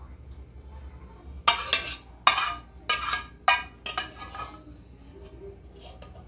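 A metal utensil knocking against cookware: about six sharp clinks with a short ring, spread over some three seconds.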